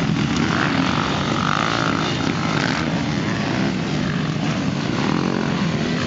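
Motocross motorcycle engines running on the track, their pitch rising and falling as they rev up and back off.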